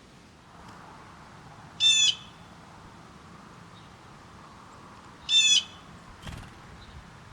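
A bird giving two short raspy calls about three and a half seconds apart, each lasting under half a second.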